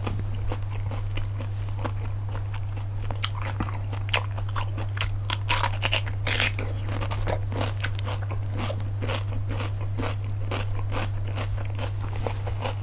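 Close-miked eating of cockles: a run of quick clicks, crunches and scrapes as the shells are handled and pried open and the meat is chewed, thickest about halfway through, over a steady low hum.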